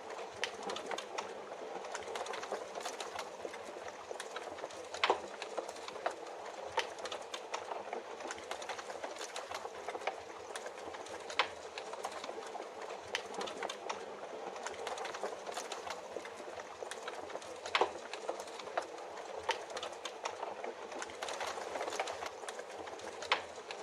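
Log fire crackling, with irregular sharp pops and snaps, over a steady hiss of rain.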